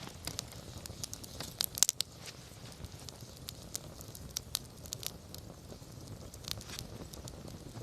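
Wood campfire crackling, with irregular sharp pops from the burning wood over a low steady rumble; a few louder pops come close together about two seconds in.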